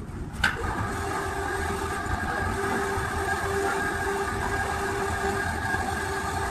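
Restored concrete mixer's motor switched on with a click, then running steadily with a whine of several held tones over a low rumble.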